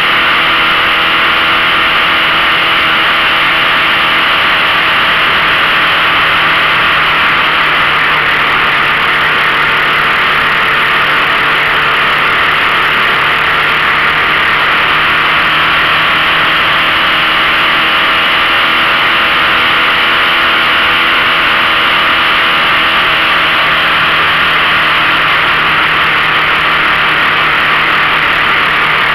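A 15 hp outboard motor running steadily under way, its pitch drifting slightly, with a strong hiss of wind and water over it.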